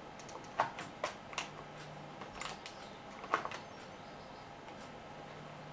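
Light clicks and knocks from the plastic case covers of a small portable radio being handled and fitted back together, about half a dozen in the first three and a half seconds, then quiet handling.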